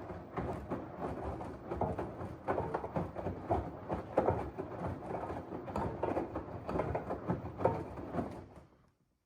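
LG washing machine drum tumbling a wet load during the wash, with irregular swishing and soft thuds. It stops abruptly near the end.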